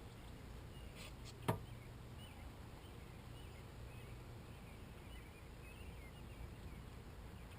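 Faint outdoor ambience with distant birds chirping. A few light clicks about a second in, ending in a sharper knock.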